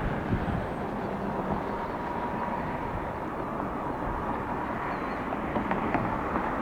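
Jet engines of a Boeing 787-9 airliner at go-around power, climbing away: a steady jet noise with a faint thin whine through the middle.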